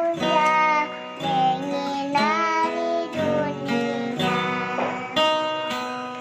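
A child singing a melody over a strummed acoustic guitar.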